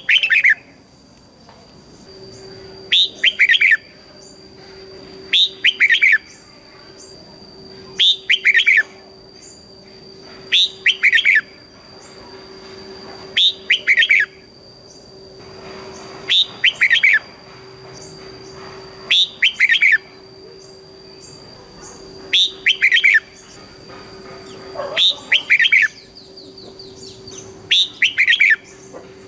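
Red-whiskered bulbul singing its short, loud, whistled song phrase over and over, about once every three seconds, each phrase a quick run of notes lasting about a second. A faint steady hum and thin high steady tones sit behind it.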